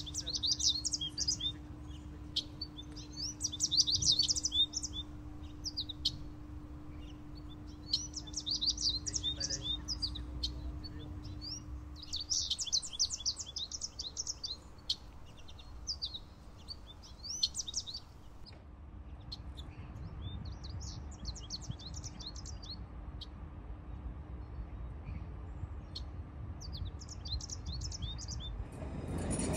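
Small birds chirping in repeated short flurries of quick high twitters, with pauses between them. Under them runs a faint low rumble and a thin steady hum, which stops near the end.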